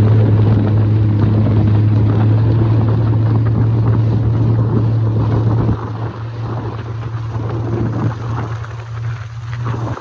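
Jet ski engine running steadily under way, with wind buffeting the microphone. The engine note eases off about six seconds in.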